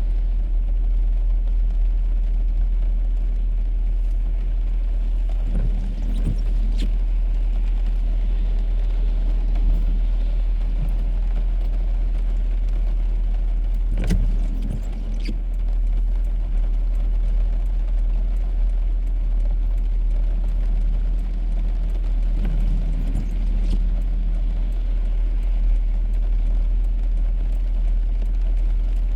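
Steady low road rumble of a car being driven, heard from inside the cabin, with a few isolated sharp taps, the clearest about fourteen seconds in.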